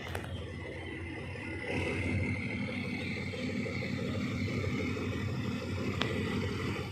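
Passenger train running along the track: a steady low rumble with a faint high whine, and a sharp click about six seconds in.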